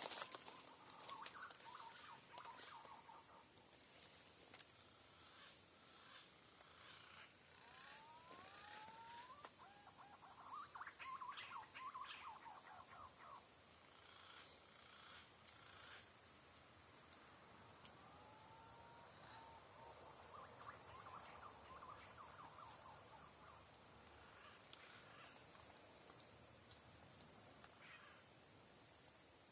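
A steady high-pitched insect drone, with three bursts of whistling bird calls, each a cluster of rising and falling notes, about eight and eighteen seconds in besides one at the start.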